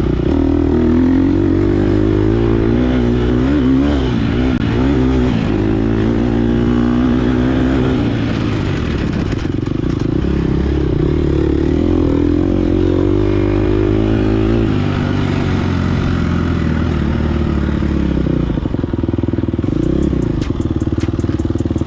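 Gas Gas EX250F dirt bike's 250cc four-stroke single-cylinder engine running hard on a trail ride, its revs rising and falling with throttle and gear changes. A run of sharp clicks or clatter comes near the end.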